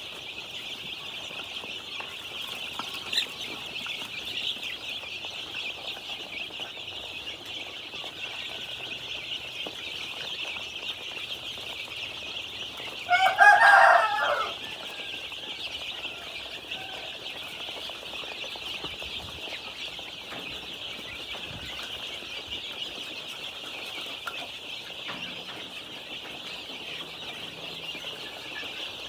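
A brood of 10-day-old KKU1 native-cross chicks peeping continuously in a dense, high chorus. About thirteen seconds in, a rooster crows once, loudly, for about a second and a half.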